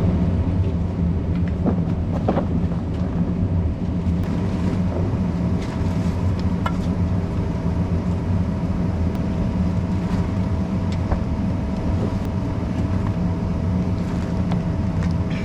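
A steady low machine hum with a faint higher whine, broken only by a few faint clicks and rustles.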